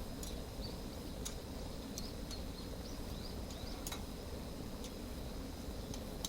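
Wood campfire crackling: irregular sharp ticks and pops, about one or two a second, over a low steady rumble, with faint small bird chirps high above.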